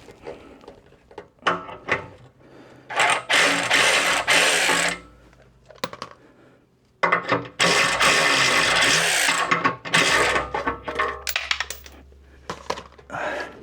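Two bursts of a motorised socket tool spinning out the two 10 mm skid plate bolts, each run lasting about two seconds and starting about three and seven seconds in. Clicks and knocks of metal handling come between the runs.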